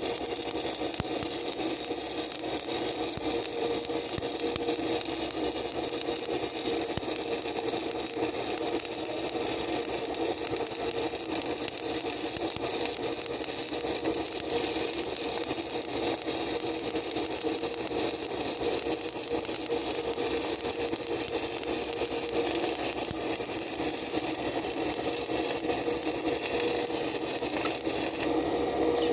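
Stick-welding arc crackling steadily as an electrode burns in a long continuous run.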